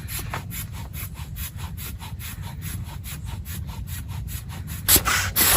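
Hand saw cutting wood in quick, regular strokes, about five a second, with a louder burst of noise near the end.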